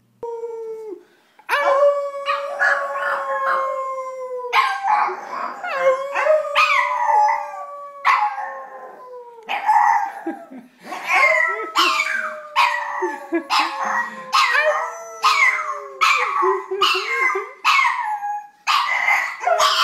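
Pug howling: several long drawn-out howls, each sagging slowly in pitch, with short choppy sounds between and over them.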